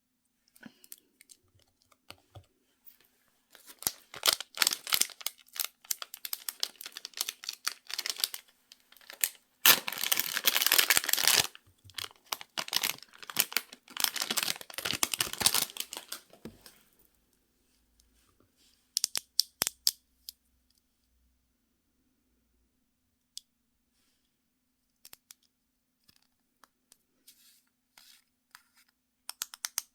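Plastic or paper packaging being torn open and crinkled in irregular crackly bursts, loudest about ten seconds in, followed after a pause by a few light clicks and taps.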